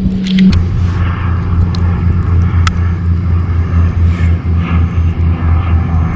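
Steady low engine-like hum with a regular slow pulse, with a few sharp clicks over it.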